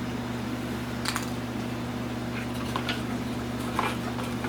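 Several light, irregular clicks and taps of a plastic taillight lens being handled over a steady mechanical hum.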